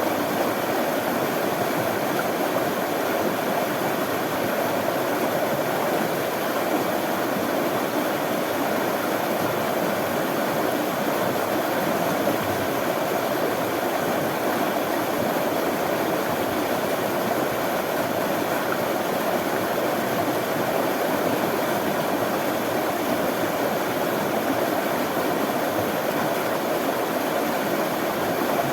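Running water flowing steadily, an even, unbroken rushing sound.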